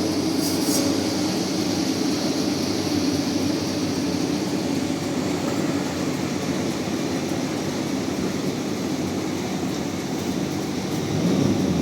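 Sawmill bandsaw running with a steady mechanical drone, consistent with sawing a large rain tree log into slabs.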